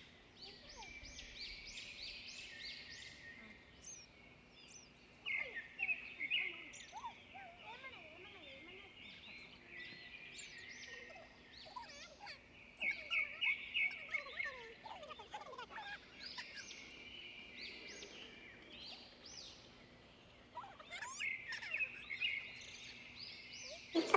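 Pet bird chirping and chattering: runs of quick high chirps come in several louder bursts, with softer twittering between them.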